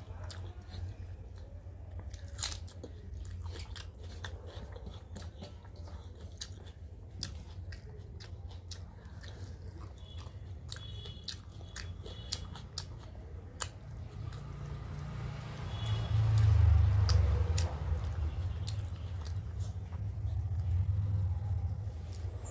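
Close-miked chewing of a mouthful of rice and fried fish, with many short wet mouth clicks and smacks. A steady low hum runs underneath and swells louder about two-thirds of the way through.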